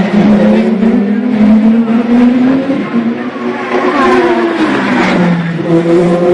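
Several racing car engines running hard on a track, their pitch gliding up and down as the cars accelerate and pass.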